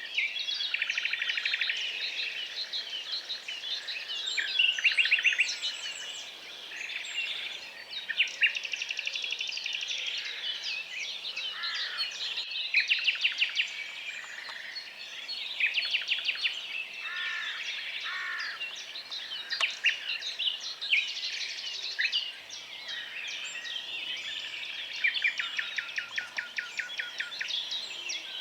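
Several songbirds singing over one another, with rapid trills and quick series of repeated notes, in a continuous chorus.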